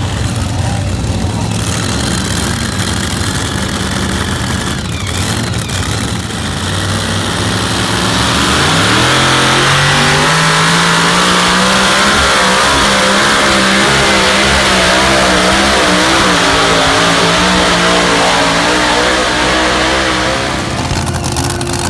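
A pulling vehicle's engine runs steadily, then revs up sharply about nine seconds in and holds at high revs for about ten seconds, typical of a competition pull run, before easing off near the end.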